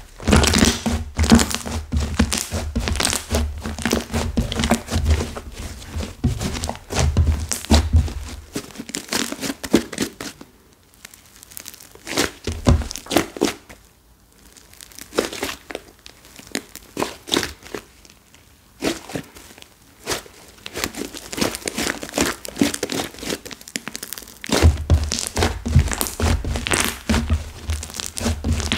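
Hardened clay slime being squeezed, pressed and pulled apart by hand, giving dense crackling, crinkling and tearing sounds with dull low thuds. The handling is heaviest in the first eight seconds and again near the end, with sparser crackles in between.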